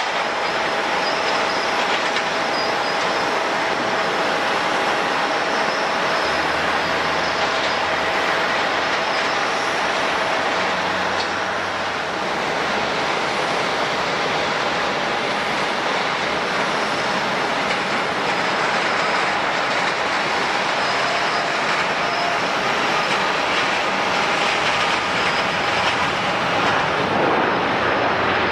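Jet airliner engines running steadily: a continuous rushing noise with a few thin, steady whining tones.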